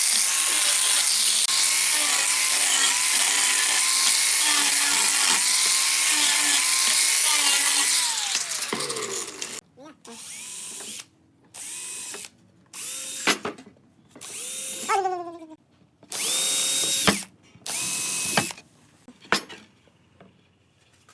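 An electric power tool runs steadily for about eight seconds, then winds down with falling pitch. After that come a series of short trigger bursts, each spinning up, holding and spinning down, typical of a cordless drill driving screws into wood.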